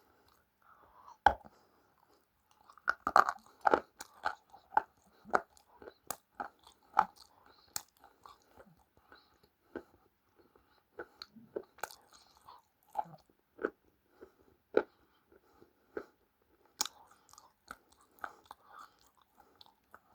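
Someone chewing crunchy food: a run of sharp, irregular crunches, loudest around three to four seconds in.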